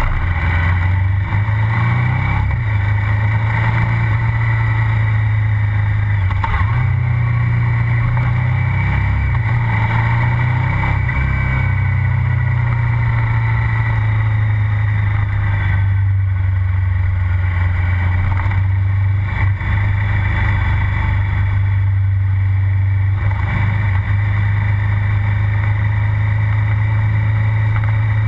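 KTM 990 Supermoto R's V-twin engine heard close to its exhaust silencer while riding, with its pitch rising and falling as the throttle opens and closes.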